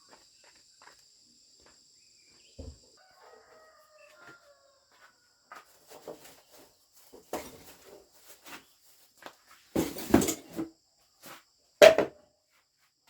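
Chickens calling, with a loud call about ten seconds in and a sharper one near twelve seconds, among scattered small clicks and knocks. A faint high insect trill runs through the first few seconds.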